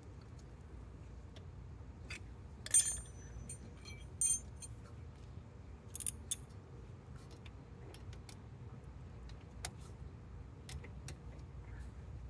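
Small metal objects clinking and jingling: a few sharp clinks with a brief ring, the loudest about three seconds in and others near four and six seconds, with scattered light ticks over a low steady hum.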